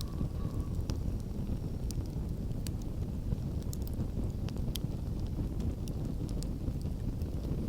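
Campfire burning, with scattered sharp crackles and pops of the wood over a steady low rumble.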